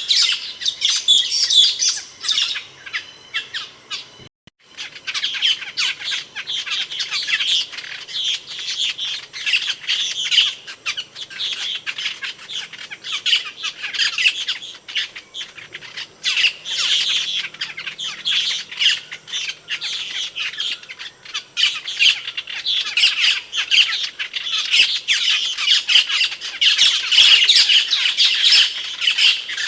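Asian glossy starling (cucak keling) calling: a rapid, dense run of short, sharp, high notes, broken by a brief silence about four seconds in.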